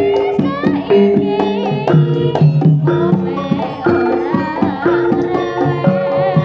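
Javanese jaranan gamelan music played live and amplified: quick kendang hand-drum strokes over sustained pitched metallophone tones, with a wavering melody line on top.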